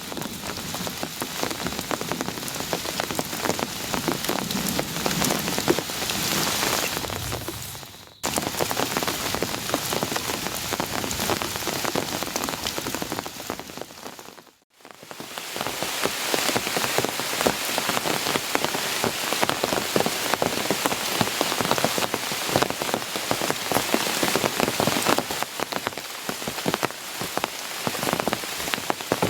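Heavy rain falling, a dense, steady patter of drops hitting a surface. It breaks off abruptly twice, about eight and fifteen seconds in, then resumes just as heavy.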